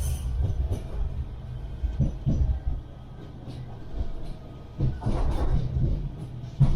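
Manchester Metrolink M5000 tram running along the rails: a low rumble from wheels and track with irregular knocks, easing off for a moment in the middle.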